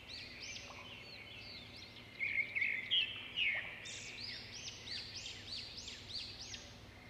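Small birds chirping: a quick series of repeated arching chirps, with a few louder, harsher calls around two to three and a half seconds in.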